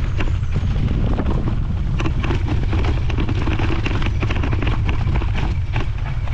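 Wind buffeting the microphone in a steady low rumble, with irregular crunching and rattling from an e-bike rolling over a cinder track.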